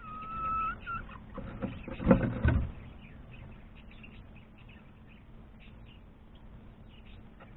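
A bird's steady whistled note lasting under a second, with a short second note just after. About two seconds in comes a brief, louder burst of rustling and knocking, followed by faint scattered chirps and ticks.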